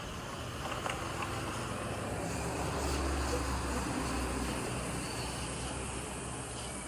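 A car driving: a steady low rumble of road and engine noise, swelling a little about three seconds in.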